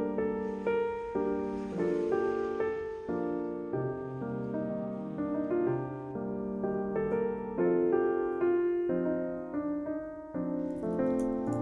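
Soft background piano music: a slow melody of held notes.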